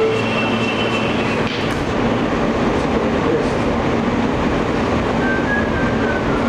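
Alstom R160A subway car riding between stations, heard on board: a steady loud rumble of wheels on rail with some clicking over the track. A faint high whine falls in pitch near the end.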